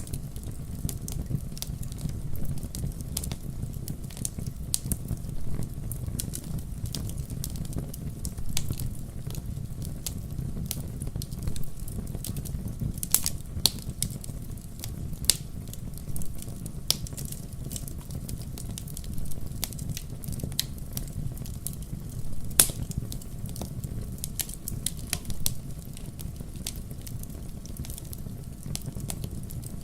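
Fire crackling in a fireplace: a steady low rumble of flames with frequent sharp pops and snaps, one pop standing out as the loudest about three-quarters of the way through.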